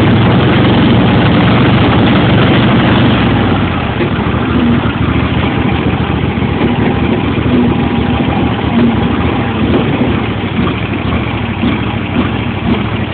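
John Deere L111 lawn tractor's 20 hp Briggs & Stratton V-twin engine running shortly after a cold start. About three and a half seconds in, its note drops and it runs less evenly, with the governor kicking.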